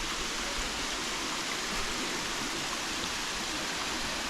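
Steady rush of a waterfall, an even hiss of falling water with no pauses.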